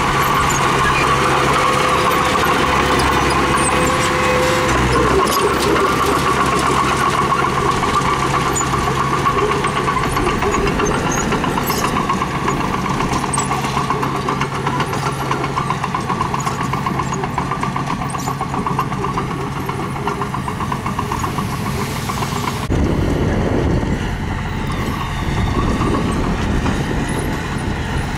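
Diesel engine of heavy earth-moving machinery running steadily, with scattered clicks and rattles over it. The sound changes abruptly about 23 seconds in.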